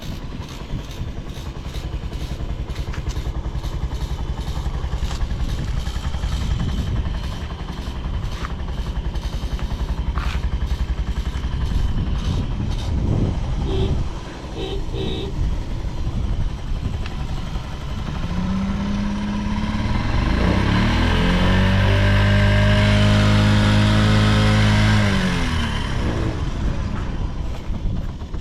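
Honda Jorcub (AF53) 50cc scooter engine idling with an even beat, then revved up about two-thirds of the way through, held high for a few seconds and let back down to idle near the end. It runs quietly with no abnormal engine noise.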